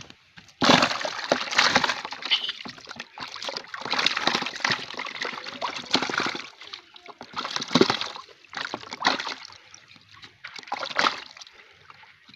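Water splashing and sloshing in repeated loud bursts, starting about half a second in and coming in several rushes.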